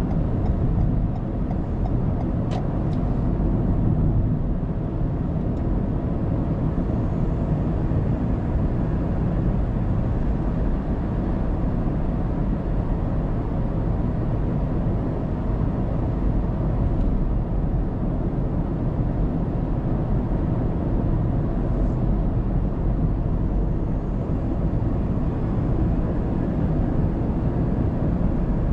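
Steady road and tyre noise of a moving car, heard from inside the cabin through a dashcam microphone, with a faint click about two and a half seconds in.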